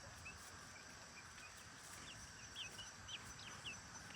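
Ducklings peeping faintly: short, high, upward peeps repeated every fraction of a second, growing busier near the end.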